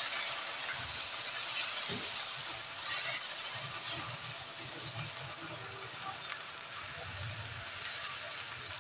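Ginger-garlic paste sizzling in hot oil with fried onions as it is stirred in the pot. The sizzle slowly dies down.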